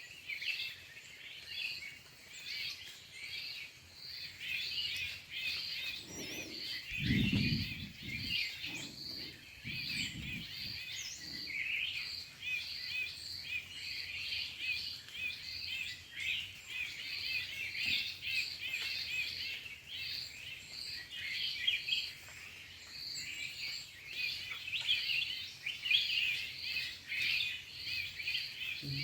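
Many birds chirping and calling at once, with a high note repeating a little under twice a second. A brief low, muffled sound comes about seven to ten seconds in.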